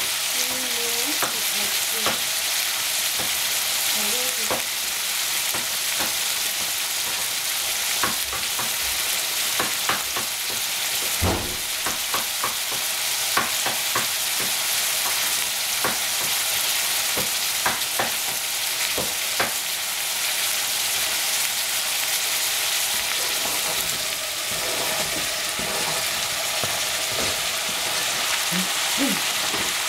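Sliced zucchini and yellow squash sizzling in a stainless-steel pan on the stove: a steady frying hiss with scattered pops and crackles. One stronger knock about eleven seconds in.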